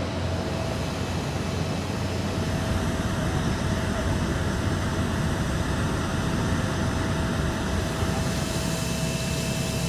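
Jet airliner's engines running steadily, a constant rush of noise with a steady whine; a second, higher whine joins about eight seconds in.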